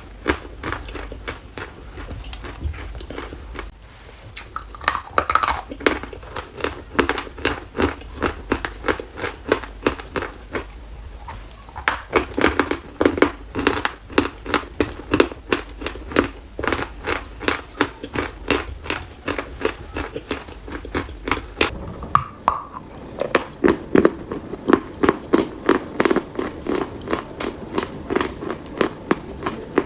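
Dry chalk being bitten and chewed: a long run of crisp crunches, several a second, pausing briefly twice.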